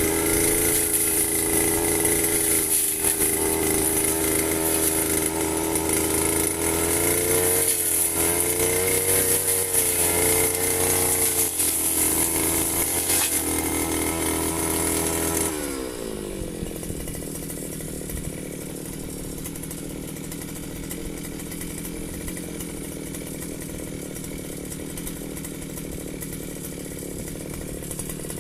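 Firman FGB 528 brush cutter's two-stroke engine running at high revs, its pitch wavering as the blade works through grass. About halfway through it drops to idle and runs on quieter and steady.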